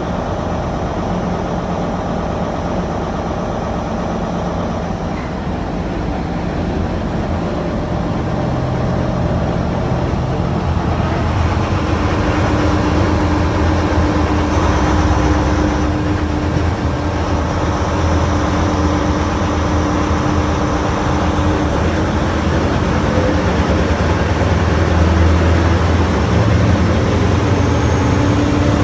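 MTU 16V4000 diesel engine of a Class 43 HST power car working under power as the train accelerates, growing steadily louder, with a steady engine note coming in about twelve seconds in.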